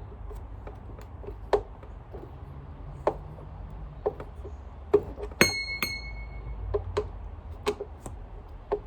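Scattered clicks and knocks of vacuum cleaner parts being handled, with two short metallic clinks that ring on briefly, about five and a half seconds in.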